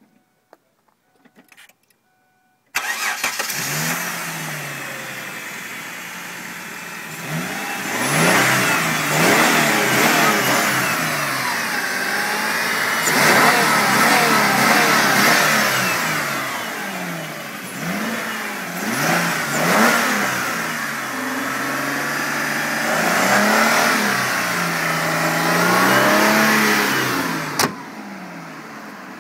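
2006 Kia Sorento LX's 3.5-litre 24-valve DOHC V6 starting up about three seconds in and running briefly. It is then revved hard toward redline again and again, each rev a rising then falling pitch. The sound drops off sharply near the end.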